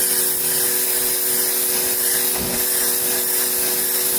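Pressure washer spraying water onto a stained fabric car seat: a steady high hiss of the spray over the machine's steady hum. A brief low thump about two and a half seconds in.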